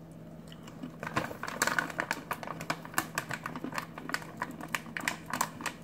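A crisp, dense waffle-thin snack being chewed with the mouth close to the microphone: irregular crunching clicks, several a second, starting about a second in.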